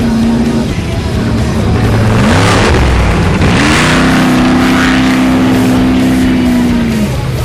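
Off-road trophy truck engine revving hard: its pitch climbs sharply about two seconds in, holds high and steady, and drops away near the end, with a rush of noise as it accelerates past. Music plays underneath.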